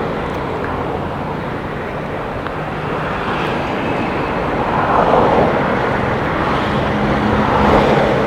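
Motorcycle on the move: engine running under steady road and wind rush, picked up by a helmet-mounted camera microphone, with the noise swelling about five seconds in and again near the end.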